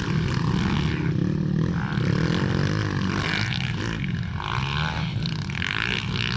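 Motocross motorcycle engines running, their pitch rising and falling as the riders rev.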